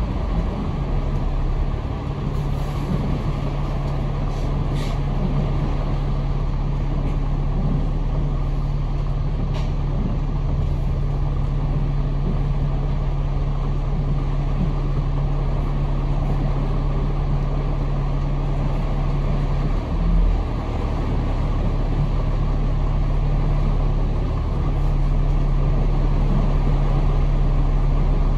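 A Kowloon Motor Bus's diesel engine and tyre noise, heard from inside the bus while it drives on. The engine hum is steady, with a short change in its note about twenty seconds in.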